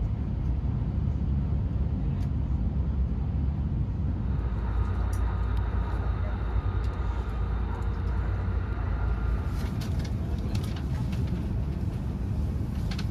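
Cabin noise of an E5 series Shinkansen bullet train running: a steady low rumble, with a faint higher whine for a few seconds in the middle. Near the end a run of sharp clicks and rattles comes in as the train reaches a station platform.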